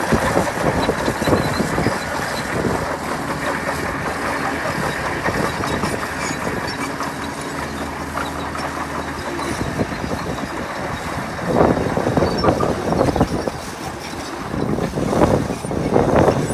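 Heavy earthmoving machinery at work: a large diesel engine running steadily, with louder, rougher stretches about two-thirds of the way in and again near the end.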